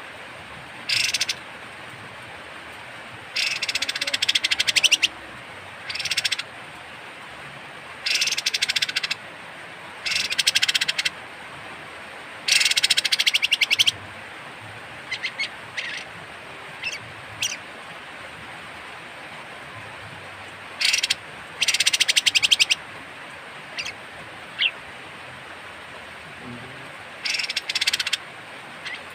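Kapas tembak (olive-winged bulbul) giving harsh, rasping rattle calls in irregular bursts of about half a second to a second and a half, with a few short sharp chips in between, over a steady hiss.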